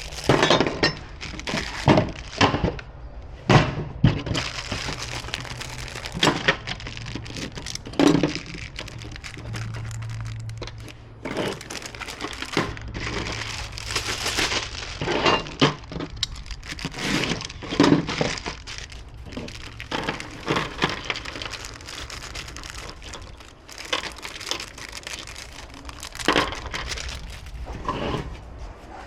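Irregular knocks, cracks and crinkling as gas grill parts and their packing material are handled.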